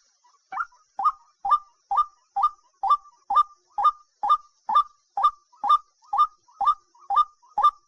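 A bird call: a short whistled note repeated evenly about twice a second, starting about half a second in, with a faint steady high hiss beneath.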